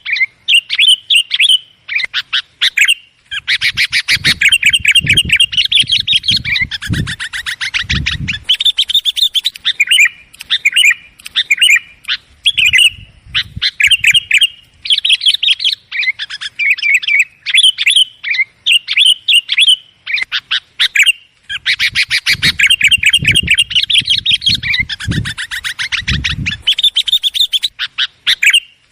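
Sooty-headed bulbuls (kutilang) calling noisily in fast chattering runs of short, sharp notes, with brief pauses between runs; this is the agitated calling used as a lure to draw in wild bulbuls. Low rumbling comes and goes under the calls twice.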